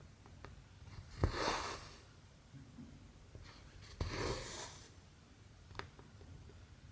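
Cross stitch being worked by hand: twice a sharp tick of the needle going through the cotton fabric, each followed by a short swish of thread pulled through, with a lighter tick near the end.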